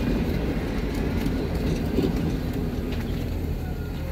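Passenger train coaches rolling slowly past on the rails: a steady low rumble of wheels with a few light clicks, easing off as the train slows to a stop.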